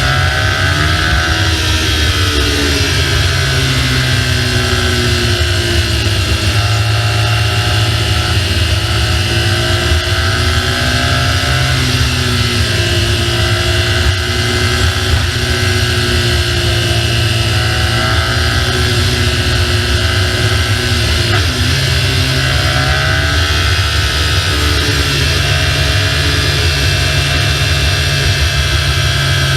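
BMW R1200GS boxer-twin motorcycle engine running under way, its note rising and falling several times as the revs change, over a steady rush of wind noise.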